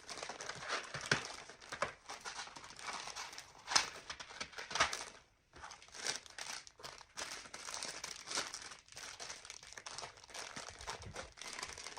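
Plastic candy and chip packets crinkling and crackling as they are handled and sorted, with many sharp crackles and a brief pause about five seconds in.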